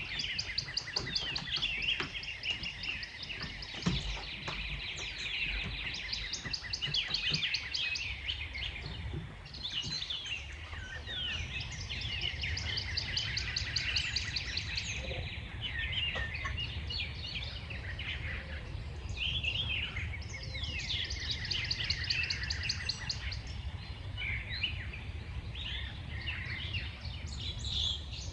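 Several birds singing and chirping at once, in overlapping rapid trills and short whistled notes, over a low steady background hum.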